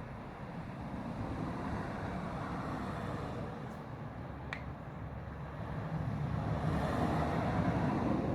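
A Northern Ireland Railways Class 3000 diesel multiple unit passing, growing louder to a peak near the end and then starting to fade, with a brief high squeak about halfway through.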